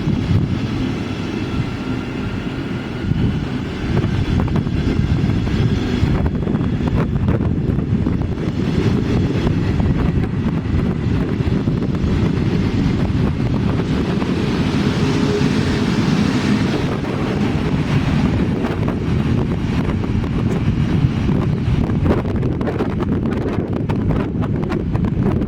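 Wind buffeting the microphone with a heavy, steady rumble, over a train running past. A faint rising whine comes in the first few seconds, and a hiss swells up and fades away about halfway through.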